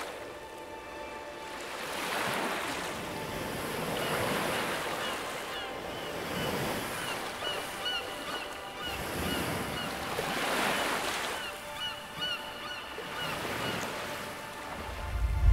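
Sea waves washing in, swelling and fading every few seconds, with short high bird calls repeating over them.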